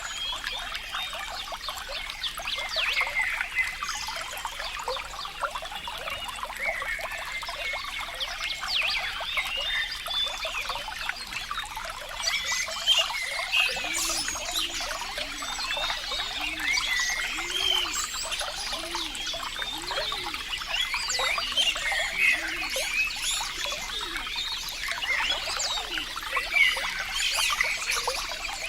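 Flowing water trickling and bubbling, a dense patter of small gurgles. About halfway through, a run of low rounded notes repeats roughly once a second for several seconds.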